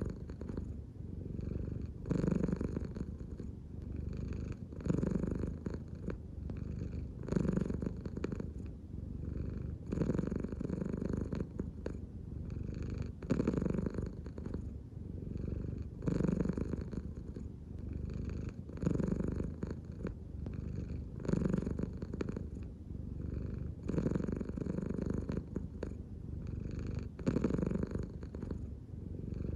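An American Shorthair cat purring steadily, the purr swelling louder about every two and a half to three seconds with each breath, in a slow, even rhythm.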